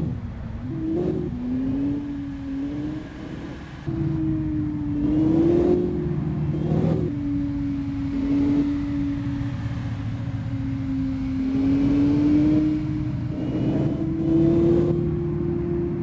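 Car engine running as the car drives, its note rising and falling gently with the throttle over road rumble, with a few brief rushes of noise.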